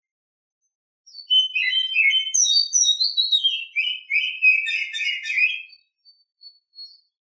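Oriental magpie-robin (kacer) song, given as a female's: a dense phrase of rapid, varied whistled notes lasting about four and a half seconds, starting about a second in, followed by a few short high notes.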